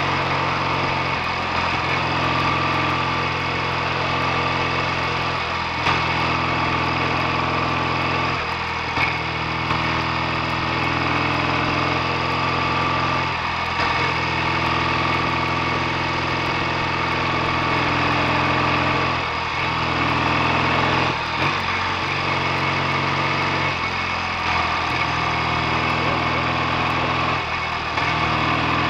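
BSA A65 650 cc parallel-twin engine running as the motorcycle is ridden. The engine note dips and changes pitch every few seconds as the revs change.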